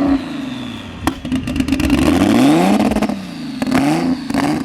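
Car engine being revved, its pitch climbing and falling back twice, loud. A few sharp clicks sound about a second in.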